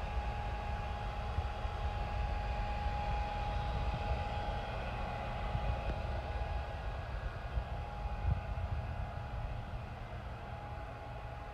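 Boat machinery running: a steady low rumble with a thin, steady whine above it.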